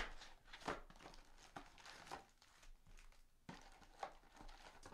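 Faint crinkling and tearing of card packaging as a box of trading cards is opened, in a few short scattered rustles.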